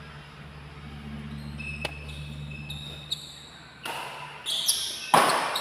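Badminton rally on an indoor court: sharp racket strikes on the shuttlecock and short shoe squeaks. The loudest is a hard hit near the end, over a steady low hum.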